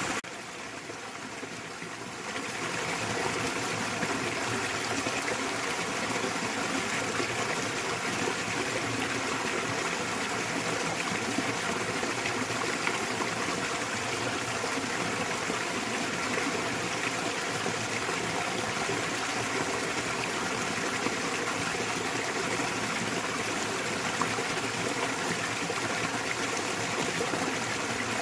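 Small waterfall splashing into a valley stream: a steady rush of running water, briefly quieter for the first two seconds.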